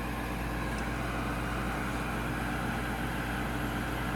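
Gas furnace draft inducer motor running with a steady hum while its pressure switch stays open, the fault behind a 3-flash code. The technician suspects either too little negative pressure from the inducer or a bad switch.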